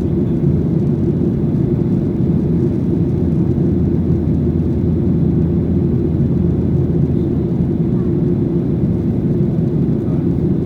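Steady cabin noise inside a Boeing 737-800 in flight: the low drone of its CFM56-7B engines mixed with airflow over the fuselage.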